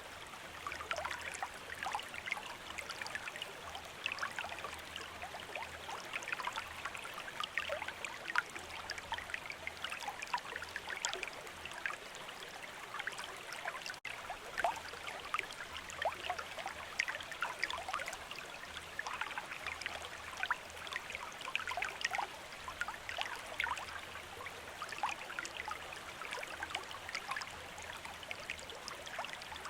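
Shallow stream running over stones, a steady babbling trickle with many small splashes and droplets.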